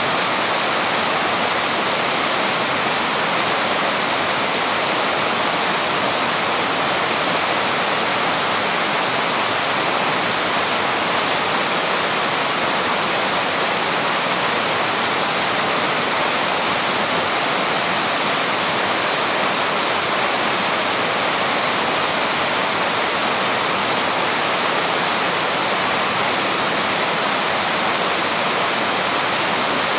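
Papineau Falls, a small waterfall, rushing: a steady, unbroken wash of falling water.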